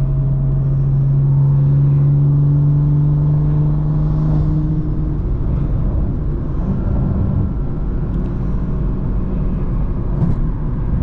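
BMW M340i's B58 turbocharged inline-six, fitted with a big aftermarket turbo, running under way with a steady exhaust drone. The drone eases off about five seconds in, leaving a rougher, uneven engine sound.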